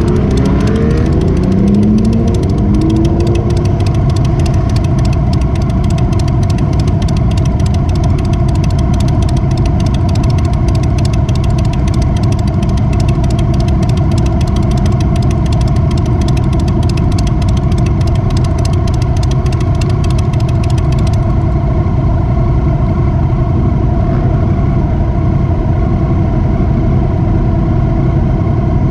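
Motorcycle engine running at a steady speed, with the pitch rising and falling in the first couple of seconds. A high crackle of noise over it stops about three quarters of the way through.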